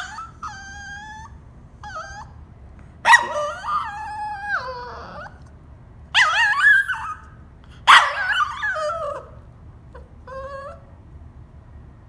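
Cavalier King Charles spaniel whining in a series of about six high, wavering whines, some drawn out like a yawn, with the longest and loudest about three, six and eight seconds in. The dog is whining to be let out of his cage.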